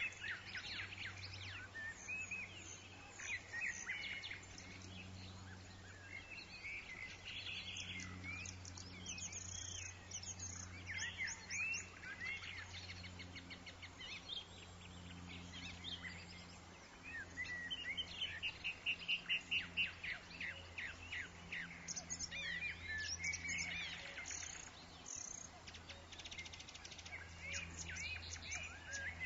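Several woodland birds chirping and singing with overlapping calls and quick trills, over a steady low background rumble.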